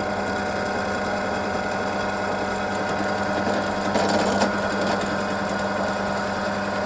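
Electric motor of a workshop drill running with a steady hum. About four seconds in there is a brief louder, rougher noise.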